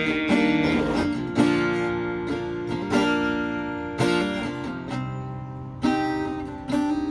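Acoustic guitar played solo between sung verses, a chord strummed every second or two and left to ring out.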